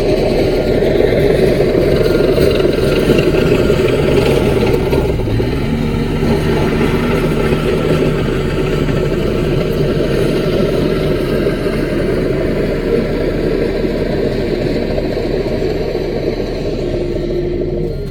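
Diesel engine of a small CAT crawler bulldozer running steadily while the machine works.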